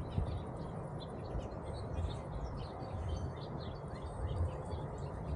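Small birds chirping in many short, quick notes over a steady low rumble.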